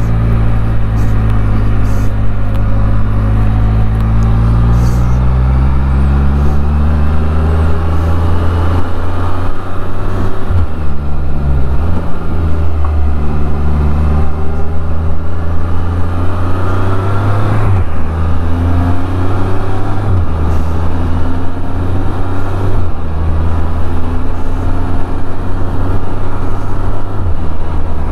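Can-Am Spyder three-wheeled motorcycle engine running under way, with its pitch rising and falling with the throttle. The note breaks briefly several times.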